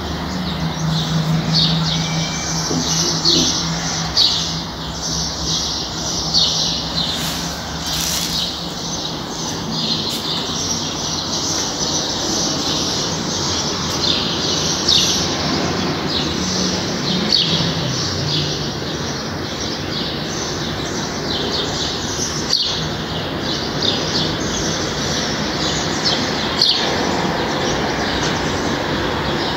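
Small birds chirping in quick, repeated short calls throughout, over a steady low hum of distant traffic.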